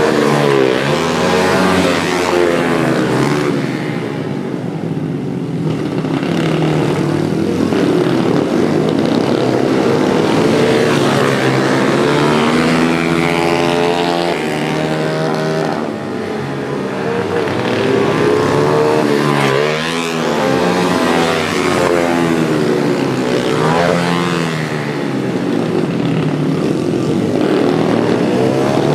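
Several pit bikes racing, their small engines revving up and down and overlapping, with bikes passing close by twice near the end.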